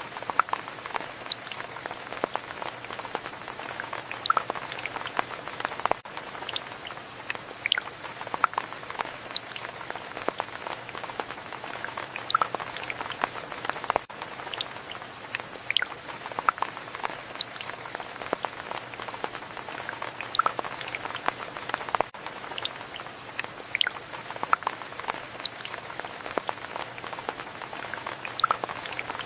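Steady rain hiss with many individual drops tapping sharply close by. The same stretch of rain repeats about every eight seconds.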